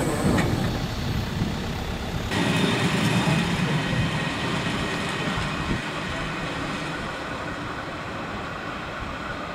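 A train running over the level crossing, a steady rolling rumble that grows louder about two seconds in and then slowly fades as it draws away.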